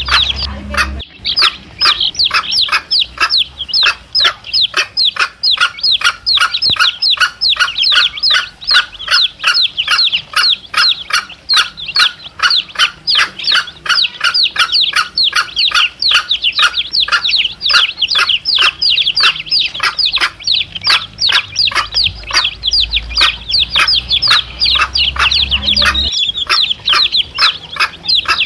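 Domestic chicks peeping without pause, a rapid run of short, high, downward-sliding cheeps several times a second, with a mother hen clucking beneath them.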